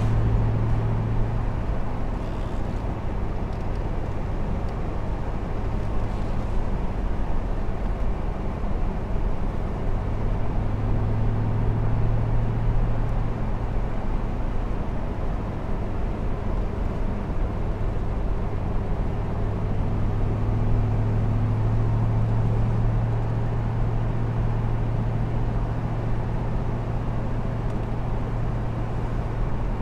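Chevrolet Camaro's 6.2-litre V8 running at a steady cruise on the road, a low engine hum that swells and eases a few times over a constant rush of road and wind noise.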